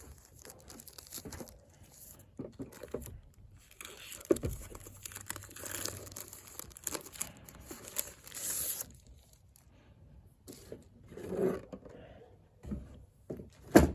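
Rustling and crinkling of a portable monitor's protective covering being handled and opened, with small taps and clicks, and one sharp knock at the very end.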